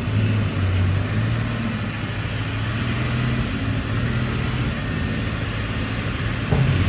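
Diesel engine of heavy earthmoving machinery running steadily with a low hum, and a short knock near the end.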